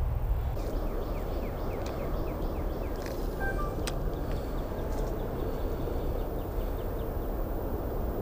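Steady low rushing outdoor noise, with a bird calling in runs of quick, repeated down-slurred chirps, twice, and a single sharp click about four seconds in.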